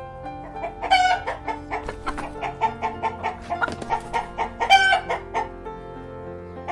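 Chickens clucking in a rapid run of short calls, with two louder, higher squawks, one about a second in and one near five seconds.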